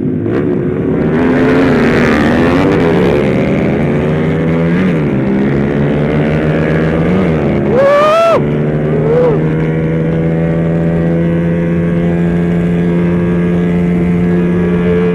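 Small-capacity motorcycle engine with freshly rebuilt internals, revving up and down through the gears, then running at a steady speed from about nine seconds in. About eight seconds in, a brief, high-pitched rising whine cuts across it.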